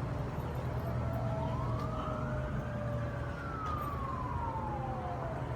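Emergency vehicle siren in a slow wail, rising for a couple of seconds, falling, then starting to rise again near the end, over a steady low traffic rumble.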